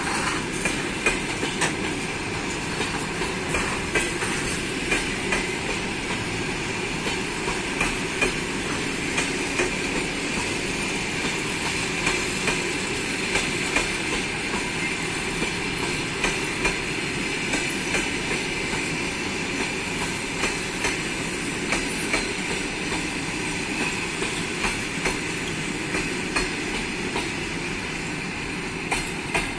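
Passenger coaches rolling past at speed, their wheels clicking over rail joints about once a second over a steady rolling rumble. The noise falls away at the very end as the last coach goes by.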